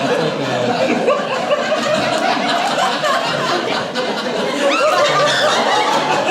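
Live audience laughing and chuckling, many voices overlapping in a steady wave of laughter.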